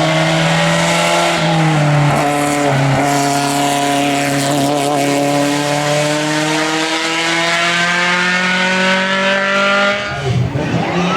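Race car engine at high revs on a hill climb, holding a loud, steady note with brief gear-change breaks about two and three seconds in. The note rises slowly, then drops off sharply near the end as another engine sound comes in.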